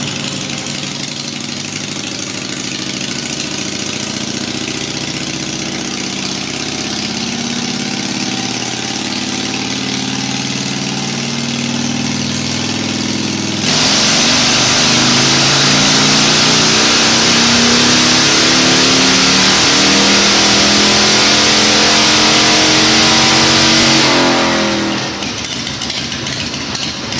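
Harley-Davidson Twin Cam 88 V-twin engine pulling against a chassis dyno's drums, its pitch climbing steadily through a run. About 14 s in it jumps to a much louder pitch with a harsh rushing hiss, the pitch still rising, as the throttle is held open; about 24 s in the throttle closes and the revs fall away.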